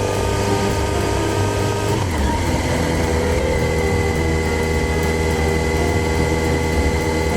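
Kawasaki Z1000's inline-four engine running under way on the motorcycle. Its pitch climbs slightly, shifts about two seconds in, then holds steady.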